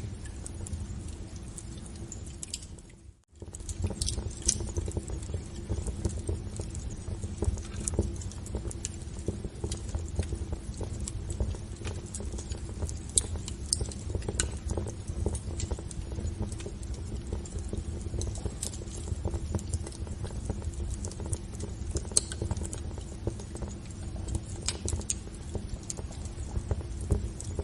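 Wood fire crackling in a fireplace: a steady low rumble of flames with scattered sharp pops and snaps. The sound briefly fades out and comes back about three seconds in.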